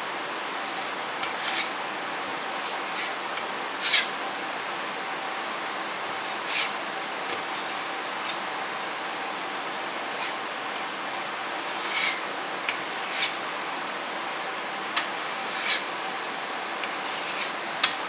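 Metal putty knife scraping and pressing wood putty into a hole in a wooden table top, in short scrapes every second or so, the loudest about four seconds in, over a steady background hiss.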